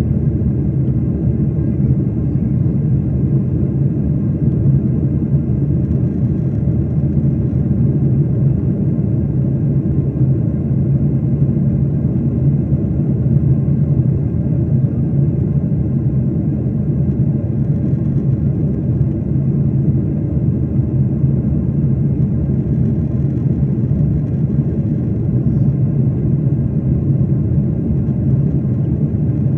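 Steady low drone of an airliner's jet engines heard inside the passenger cabin.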